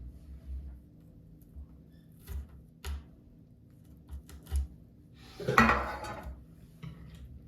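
Kitchen dishes and utensils being handled: a few light clinks and knocks, then a louder clatter of just under a second, about five and a half seconds in.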